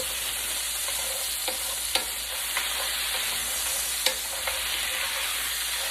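Diced onion and garlic sizzling steadily in bacon grease in a frying pan, the pan 'definitely talking' as it sautés. A handful of short clicks of a utensil stirring against the pan, the loudest about four seconds in.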